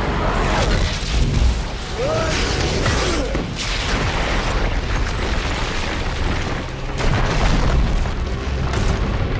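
Movie action sound effects: heavy booms and crashing impacts over a deep rumble, with a dramatic score underneath.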